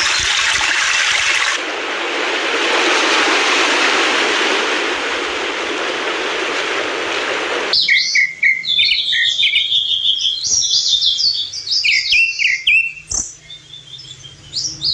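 Rushing water as a steady hiss, which changes abruptly at about a second and a half and cuts off about halfway through. Then small birds are chirping, with many quick, high chirps and short falling notes.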